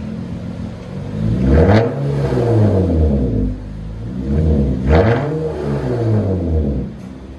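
2003 Honda Accord 3.0L V6 on a straight-piped dual exhaust, its mufflers and resonators cut off and its catalytic converters kept. The engine idles and is revved twice, each time rising in pitch and falling back to idle.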